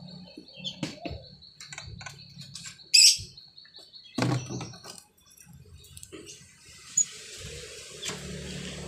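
Pet starling (jalak) calling: scattered short chirps and clicks, with one loud sharp call about three seconds in.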